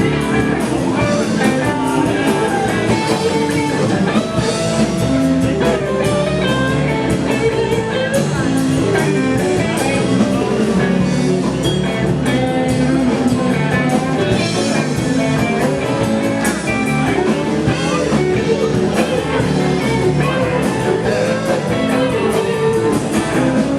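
Live blues band playing, guitar to the fore over a steady drum beat, with singing.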